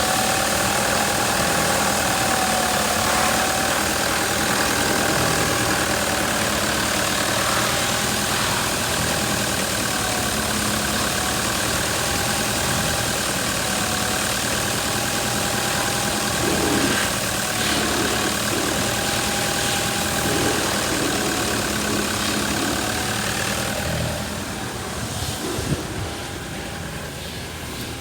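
Toyota Prado's 3.0-litre four-cylinder turbo-diesel engine idling steadily. It gets somewhat quieter about four seconds before the end.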